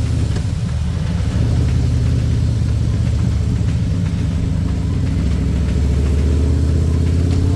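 Harley-Davidson Electra Glide Standard's Milwaukee-Eight V-twin engine running steadily while the motorcycle is ridden on the road.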